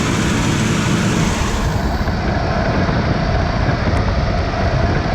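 Small-block Chevy V8 idling steadily on a freshly installed Holley Sniper throttle-body EFI, still warming up before the system starts self-tuning.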